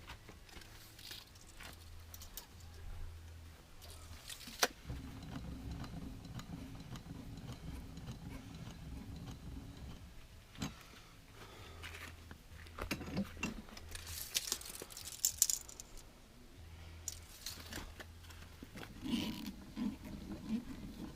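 Hand-cranked truck camper jacks being wound up toward full extension: scattered metallic clicks and rattles from the crank handles, with a short rustling burst about two-thirds of the way through.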